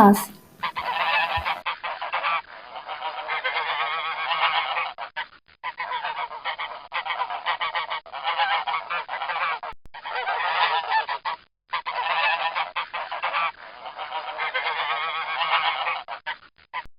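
Farm geese honking in a dense, continuous run of calls, broken by a few short pauses.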